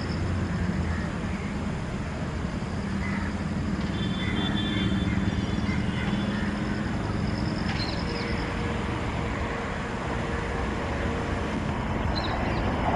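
Express train hauled by an electric locomotive approaching along the track: a steady low rumble that grows louder near the end.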